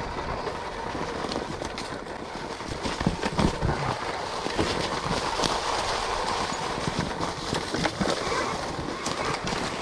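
Electric KTM Freeride E-XC dirt bike riding a woods trail with no engine noise: a steady rush of tyres on dirt, broken by frequent knocks and clatters from the bike and its suspension going over bumps and roots.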